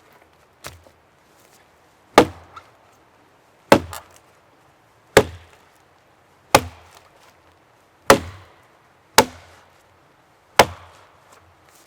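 Wood being chopped: about seven sharp strokes at a steady pace, roughly one every one and a half seconds, each with a short ringing tail.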